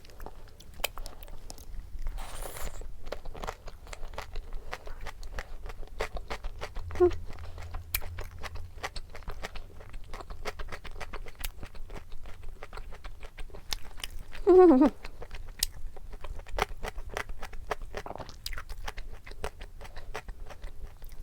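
Close-miked chewing of a bite topped with kimchi: a steady run of small wet clicks and crunches. About two-thirds of the way through, a short falling hum of a voice.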